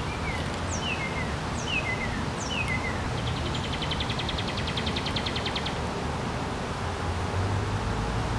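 Wild birds calling over steady outdoor background noise: three short falling chirps in the first three seconds, then a rapid, even trill of about ten notes a second lasting a couple of seconds. A low rumble rises near the end.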